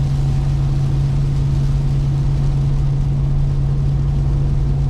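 2021 Ram 1500 TRX's supercharged 6.2-litre Hemi V8 pulling at a steady cruise, a constant low drone over road rumble.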